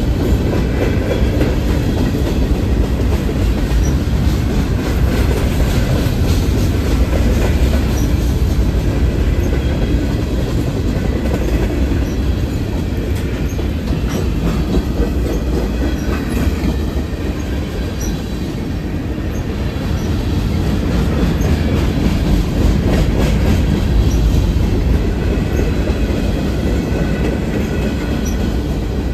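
Freight train cars rolling past at close range: a steady, loud rumble with the wheels clattering over the rail joints.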